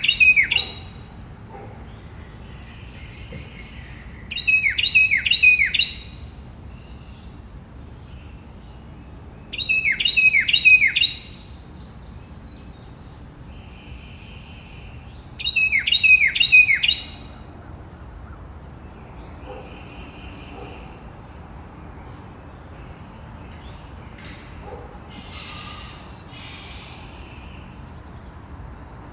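Birdsong: one bird repeats a loud phrase of about four quick notes, each sweeping downward, four times about five to six seconds apart, stopping after the fourth. Softer short calls from other birds come in between, over a steady high hiss.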